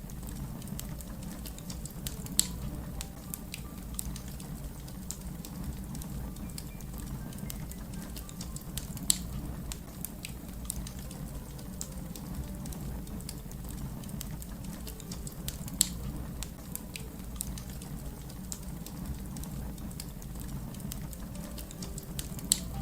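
Wood fire crackling: many small scattered crackles and four louder pops spaced about seven seconds apart, over a steady low rumble.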